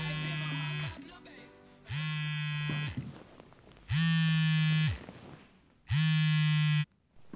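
Smartphone vibrating against a wooden tabletop as an alarm, giving four buzzes of about a second each, two seconds apart, the last two louder.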